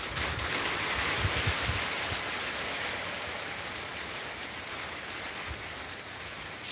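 Heavy rain falling in a steady hiss that eases a little after the first couple of seconds.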